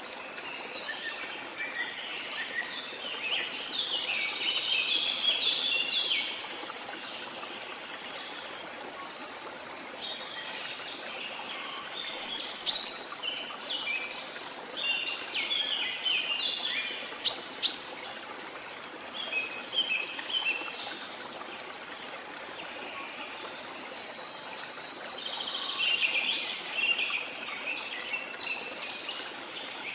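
Birds chirping and singing in bursts over the steady rush of a waterfall, with a few sharp, louder calls around the middle.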